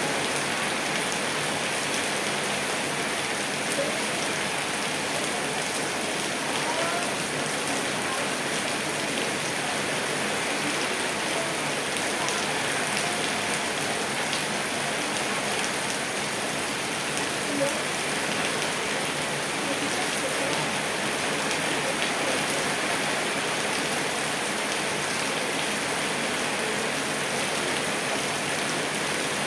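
Steady rain falling, with many small drop ticks on surfaces through an even hiss. There is one louder single tap a little past halfway.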